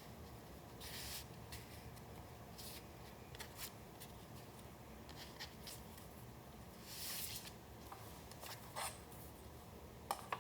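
Paper being handled and slid about in a few short, soft rustling strokes, with a sharp tap near the end.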